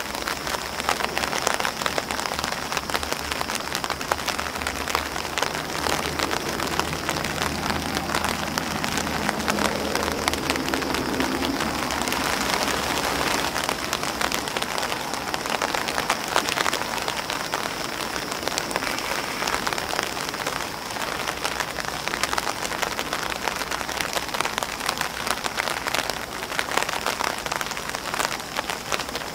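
Steady rain falling on an umbrella and grass leaves, a dense continuous patter of drops.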